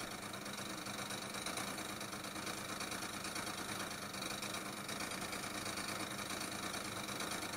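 Aprilia SR 50 scooter's 50 cc two-stroke engine idling steadily just after a cold start at −7 °C.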